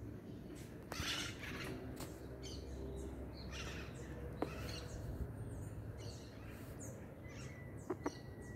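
Birds giving short, harsh calls one after another, about one a second, over a steady low rumble.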